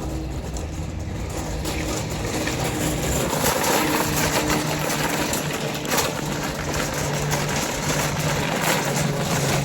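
A car running: a steady low engine hum under a broad rushing noise that grows a little louder about three seconds in.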